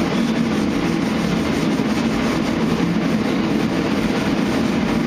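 Dual-action orbital sander running steadily with 320-grit paper against primer on a truck body panel.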